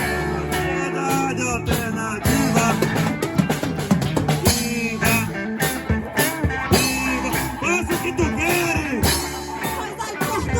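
Rock song playing, with a drum kit beat, guitar and singing.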